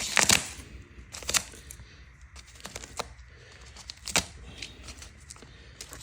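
Plastic packaging being cut and pulled off an electric bike: a few sharp snaps of scissors through zip ties, about one to one and a half seconds apart, with rustling of plastic between them.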